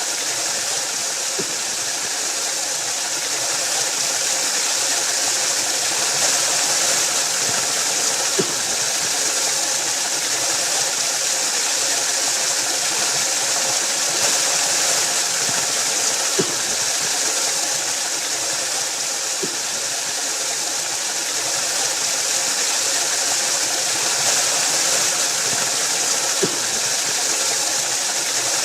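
Waterfall: a steady, unbroken rush of falling water, with a few faint low ticks now and then.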